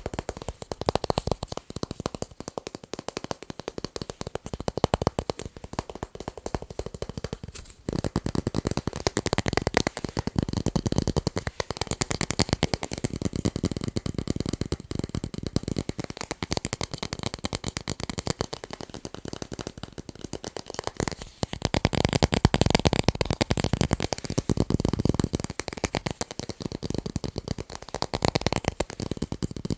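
Fast, continuous tapping on tape, many small clicks a second in a dense patter, with a brief break about eight seconds in.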